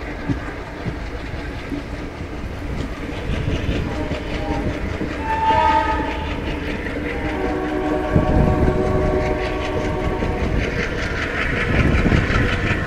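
Passenger train running along the track, heard from an open coach door, with wheels clattering over the rails. The diesel locomotive's horn sounds a short blast near the middle, then a longer multi-tone blast soon after.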